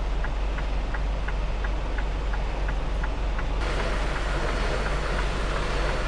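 Semi truck's diesel engine running with a steady low hum, heard from inside the cab. A faint regular ticking, about three a second, stops about three and a half seconds in, and a louder hiss rises and holds from then on.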